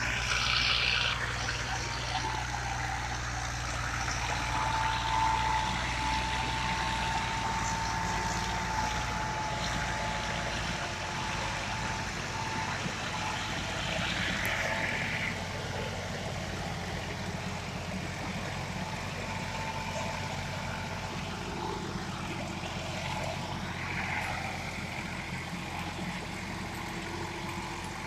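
Tractor engine running steadily under load, with a thin high whine that comes in a few seconds in and fades out a few seconds later.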